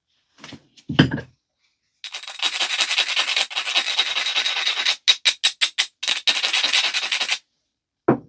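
Edge of a stone biface being ground with an abrader, a dry rasping scrape that runs for about five seconds and breaks into six quick short strokes midway, the edge being dulled to prepare platforms for flaking. A sharp stone knock comes about a second in and another near the end.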